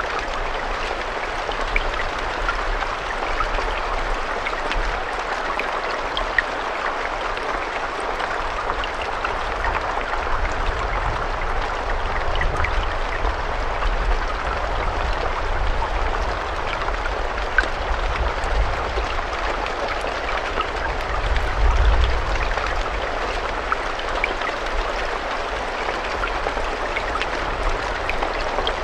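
Steady rainfall: an even hiss of rain with scattered individual drops ticking through it, over a low rumble that swells briefly about three-quarters of the way through.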